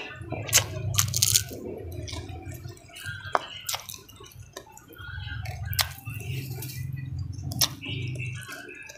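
Close-up mouth sounds of eating rice and salted fish by hand: wet chewing and lip smacks, with several sharp clicks through it.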